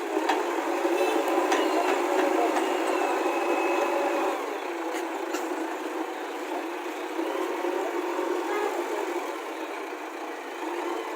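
Backhoe loader's diesel engine working, louder for the first few seconds and then easing, with a few sharp metallic knocks.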